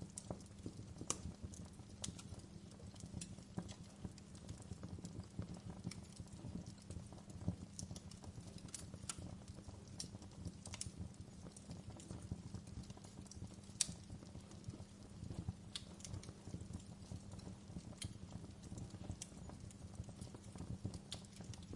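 Wood fire burning in a fireplace: a steady low rumble of flames with frequent, irregular crackles and sharp pops from the burning wood, one pop louder than the rest about two-thirds of the way through.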